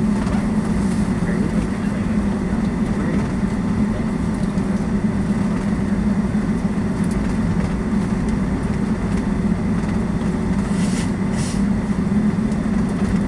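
Steady rumble of a Boeing 757-200's Pratt & Whitney engines and airframe as heard inside the passenger cabin, holding even throughout with a low hum.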